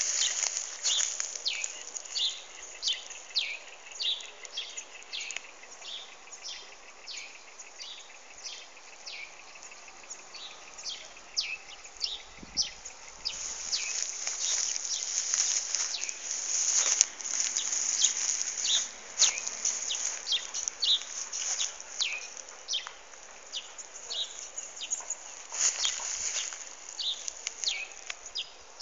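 Birds chirping over and over: many short, high calls, each sliding quickly down in pitch, a few each second, busiest around the middle.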